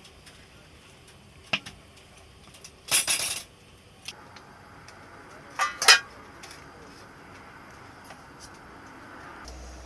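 Kitchen utensils and dishes clinking and clattering during cooking: a sharp clink, a longer scraping clatter about three seconds in, then two more clinks near six seconds, over a faint steady hiss.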